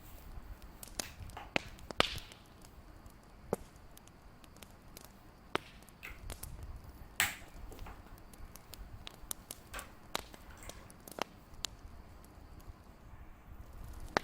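Fireplace crackling: irregular sharp pops and snaps over a faint low rumble, with louder pops about two seconds in and about seven seconds in.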